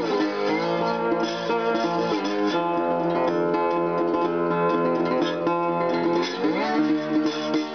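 Instrumental guitar music, with sustained plucked notes that slide down and back up in pitch a few times.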